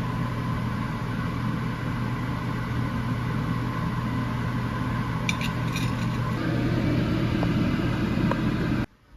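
Steady drone of an electric motor running, with a few light ticks about five seconds in; the sound cuts off suddenly near the end.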